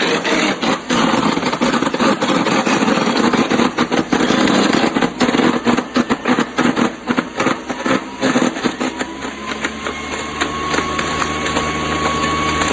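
Electric wood chipper/shredder running under load, a loud noisy whir broken by dense, irregular cracks and snaps as material is chipped. A faint whine slowly rises in pitch over the second half.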